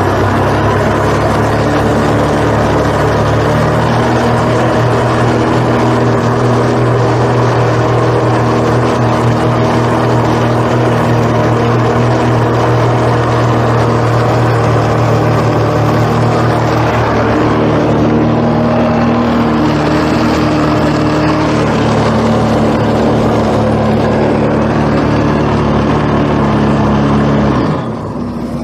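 Jet ski engines running steadily under load while towing the water-filled dam across the lake, with a sharp drop in level near the end.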